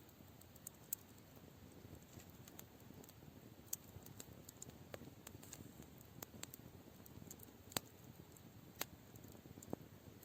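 Campfire crackling faintly: scattered sharp pops and snaps of burning wood at irregular intervals, over a low steady hiss.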